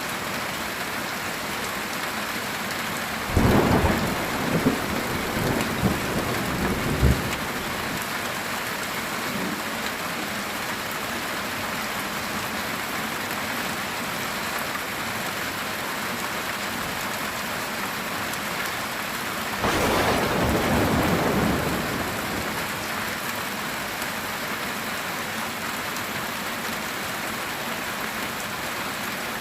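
Heavy rain falling steadily on a metal tin roof, with two peals of thunder: a crackling one starting about three seconds in and lasting several seconds, and a shorter rolling rumble about two-thirds of the way through.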